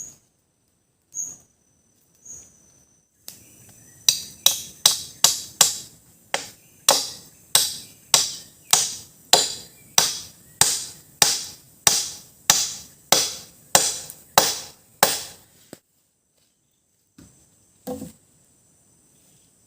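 A machete chopping into wood: about twenty sharp, evenly paced blows, a little under a second apart, starting about four seconds in and stopping near sixteen seconds. A few lighter knocks come before and near the end.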